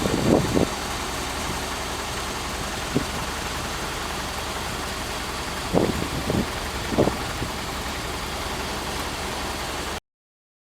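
Steady running of an idling vehicle engine, with a few soft thumps, cutting off abruptly near the end.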